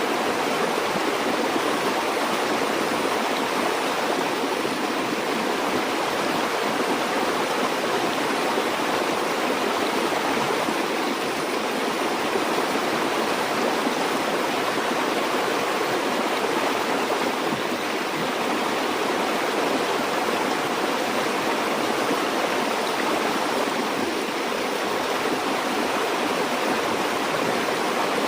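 River water flowing and rushing over stones, a steady, even rush with no breaks.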